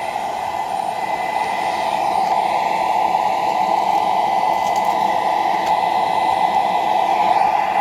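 Shark PowerDetect IP1251 vacuum cleaner running steadily, its motor giving a loud, even rush of air with a thin high whine over it.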